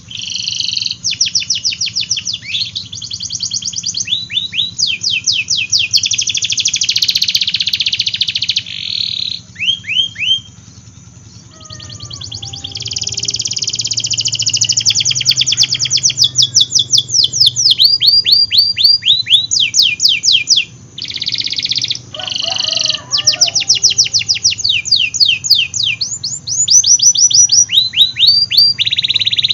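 Domestic canary singing a long, loud song of rapid trills: fast runs of repeated falling notes alternating with dense buzzy rolls, with a short lull about ten seconds in.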